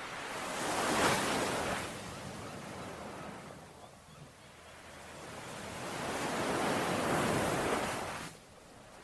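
Ocean waves washing onto a shore: one surge about a second in, then a longer swell building from about five seconds that drops away sharply near the end.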